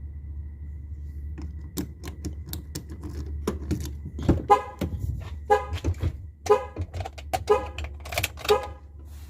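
Car alarm sounding: the car's horn blares in short repeated honks about once a second, after a few seconds of scattered clicks and knocks.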